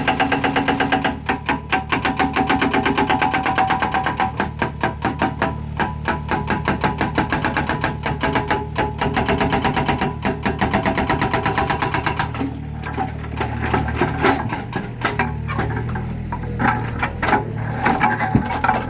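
Hydraulic breaker hammer on a mini excavator hammering concrete: a fast, steady train of sharp blows, many per second, that stops and restarts several times, over the low hum of the excavator's engine.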